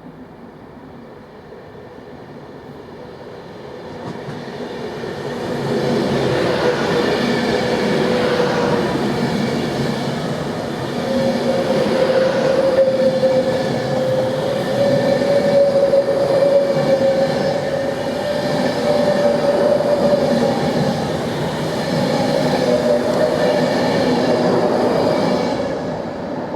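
Virgin Class 390 Pendolino electric train moving along the platform. It grows louder over the first few seconds, a steady whine runs over the rumble of the wheels, and it fades near the end.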